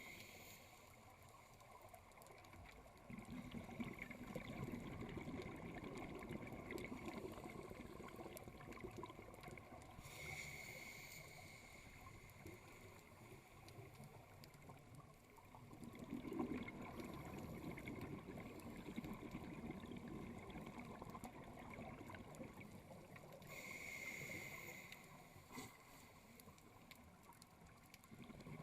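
A scuba diver breathing through a regulator underwater, heard faintly. A short hiss of an inhale comes at the start, about ten seconds in and again near the end. Each inhale is followed by several seconds of low rumbling exhaled bubbles.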